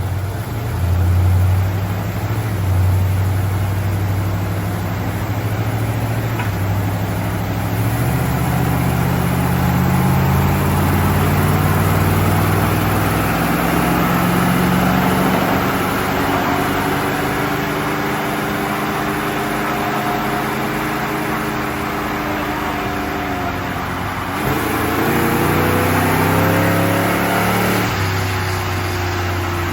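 Car engine under full load on a chassis dynamometer in a power run. After a steady low note its pitch climbs for about fifteen seconds, drops sharply as the transmission shifts up, climbs again, then falls away near the end as the run ends.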